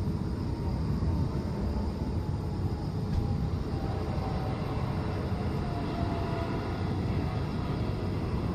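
Jet engines of a Boeing 777 airliner coming in to land: a steady low rumble with a faint whine that slides slightly lower partway through.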